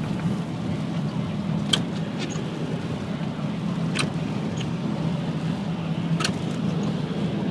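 Car cabin noise while driving on a wet, flooded road: steady tyre and engine hum with a sharp click about every two seconds, three times.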